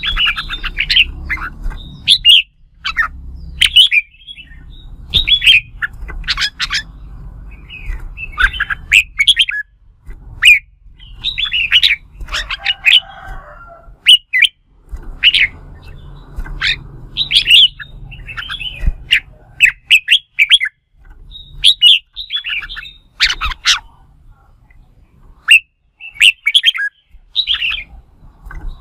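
Red-whiskered bulbuls singing their fighting song: loud, quick phrases of chirps and whistles following one another with short gaps, over a low background rumble.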